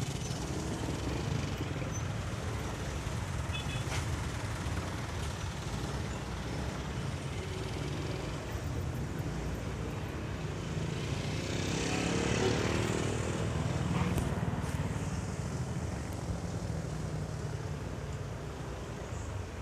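Motorcycle ride in traffic: the bike's engine and road noise rumble steadily, with surrounding vehicles; about twelve seconds in, a louder passing vehicle swells up and fades.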